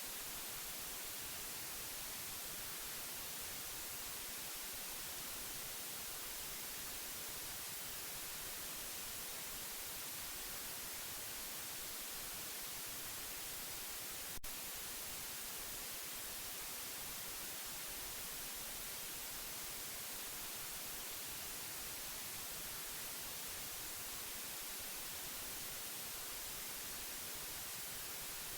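Steady white noise: an even, unchanging hiss, strongest in the high frequencies. There is a single brief click about halfway through.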